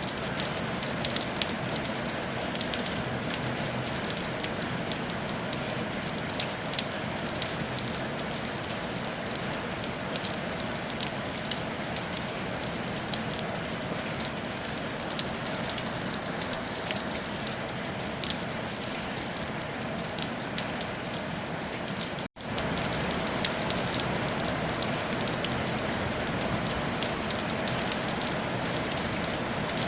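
Steady rain falling on a tile roof, a dense even hiss full of small drop ticks. The sound cuts out for an instant about three quarters of the way through, then carries on.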